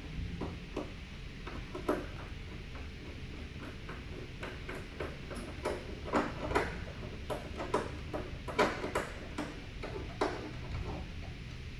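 Irregular clicks and light knocks of a plastic truck grille being handled and pushed into place against its mounting, the loudest cluster past the middle.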